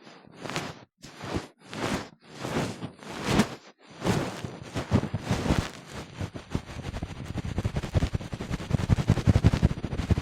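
Ear-cleaning tool working inside a silicone ear model close to the microphone: five slow swishing strokes, then from about four seconds in, fast, dense crackly scratching that grows louder.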